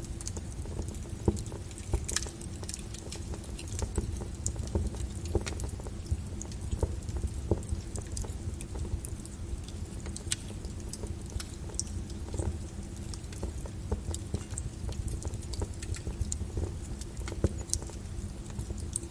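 Wood fire crackling with many small sharp pops, a few louder ones, over a steady low rumble, layered with rain pattering.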